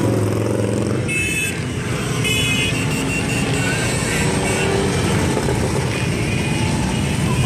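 Harley-Davidson V-twin motorcycle engines rumbling steadily as a column of bikes rides past. Brief higher-pitched tones sound about a second in and again around two and a half seconds.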